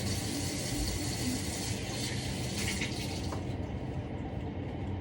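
Water running from a kitchen tap into a sink, shut off about three and a half seconds in.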